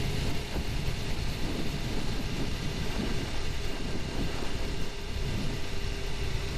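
Suzuki GSX-R750's inline-four engine running under way, its pitch rising and falling several times as the revs change, under a steady rush of wind noise.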